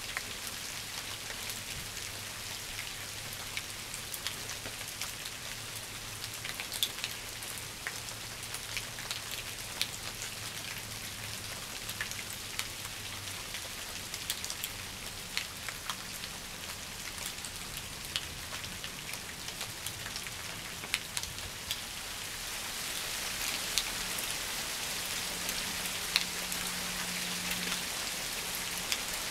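Steady rain, an even hiss with many sharp ticks of single drops, growing a little louder over the last several seconds.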